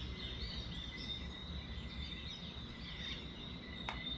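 Many birds chirping together in an early-morning chorus, over a steady high-pitched whine and a low rumble. One sharp click sounds near the end.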